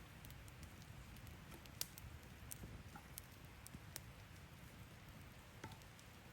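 Near silence: a faint low background hum with a few scattered sharp little clicks and ticks, the loudest about two seconds in.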